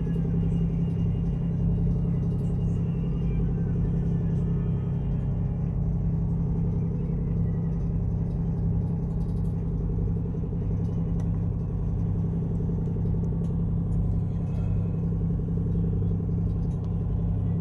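Ship's engine and machinery running: a steady low drone that holds even throughout.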